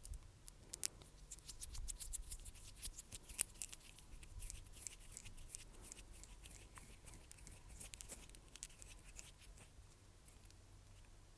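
Close-miked ASMR trigger sounds: a fast, irregular stream of fine crisp clicks and crackles, dense through the middle and thinning toward the end.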